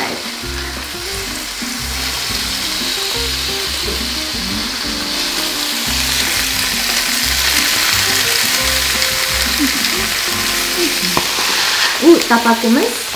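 Cubes of pressed tofu sizzling in hot avocado oil in an electric skillet, the frying hiss steady and growing louder toward the middle.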